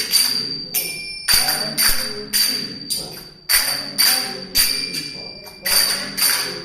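Kartals, small hand cymbals, played in a steady beat of about two strikes a second, each strike ringing briefly and fading. The 'close, close, open' stroke is being practised.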